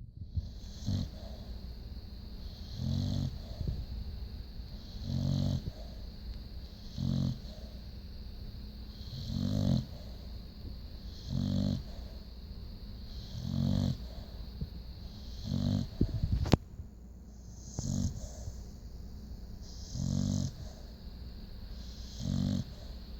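Pit bull snoring in sleep: a low, rattly snore about every two seconds, around ten in all, with a faint hiss of breath between them. A single short click about two-thirds of the way through.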